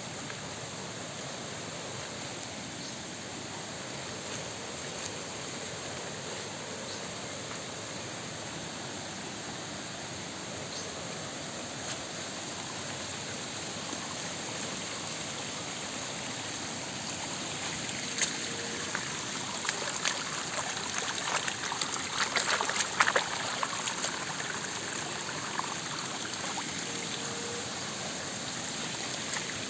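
Rain-swollen creek flowing steadily, with a run of sharper splashes and crackles for several seconds past the middle.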